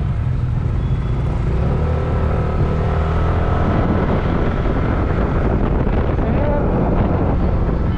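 Yamaha NMAX scooter's single-cylinder engine running steadily under way, with wind rushing over the helmet microphone.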